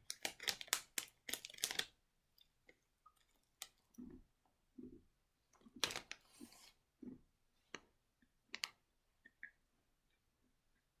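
Crinkling of a plastic cookie wrapper being opened for about the first two seconds, then soft chewing and small mouth clicks as a gingerbread cookie is eaten, with one more brief crinkle of the wrapper about six seconds in.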